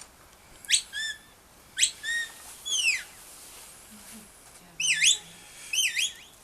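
A shepherd's whistle commands to a sheepdog: two sharp rising whistles, each ending in a short held note, then a long falling whistle. A few seconds later come two warbling up-and-down whistles.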